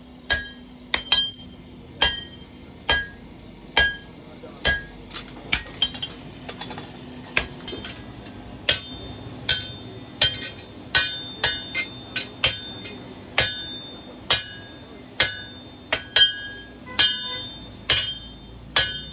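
Blacksmith's hammer striking metal on an anvil, about two blows a second, some in quick pairs, each blow ringing out with a bright metallic tone.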